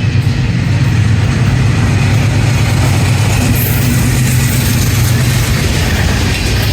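Train running close by: a loud, steady engine drone with a deep hum and broad rumbling noise, unchanging throughout.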